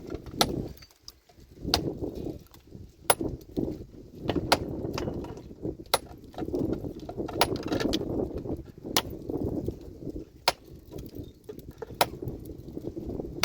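Pickaxe striking rock over and over, a sharp metallic hit about every second and a half, with rough low scraping noise between the strikes as stone is broken.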